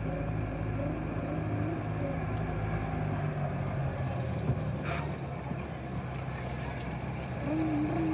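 An engine running steadily with a low, even hum. Faint voices are heard at the start and again near the end.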